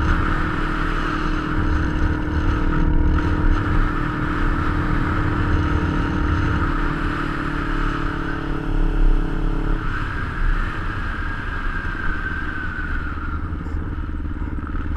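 Kawasaki Ninja 250's parallel-twin engine running as the bike rides along, with wind rushing over the bike-mounted camera. About ten seconds in the engine note drops lower.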